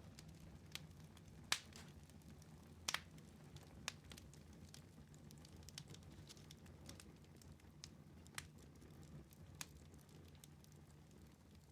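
Wood fire crackling in a fireplace: irregular sharp pops, the loudest about a second and a half in and near three seconds, over a faint steady low hum.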